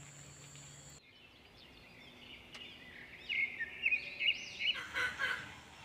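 A bird calling in a quick run of high chirps and rising-and-falling whistles, from about three seconds in until near the end. Before that, a steady high whine stops abruptly about a second in.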